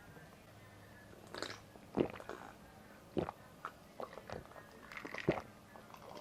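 Eating sounds: utensils clicking against the dish, with biting and chewing, in scattered short strokes from about a second in, thickest over the last few seconds.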